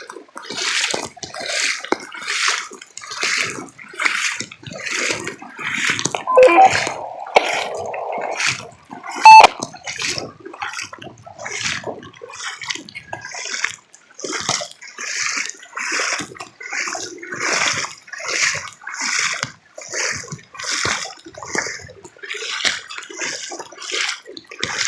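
Water sloshing and splashing in a regular rhythm of surges, about three every two seconds, with a brief tone about nine seconds in.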